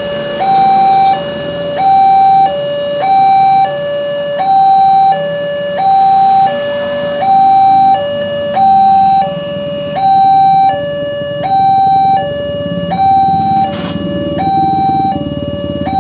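Level crossing warning alarm sounding, a loud electronic two-tone signal alternating high and low about every 0.7 s, warning that a train is coming. A low rumble builds beneath it in the last few seconds.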